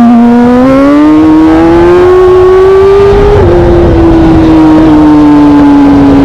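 Motorcycle engine running hard at high revs. Its note climbs for about three seconds, drops suddenly about midway as it shifts up a gear, then slowly sinks.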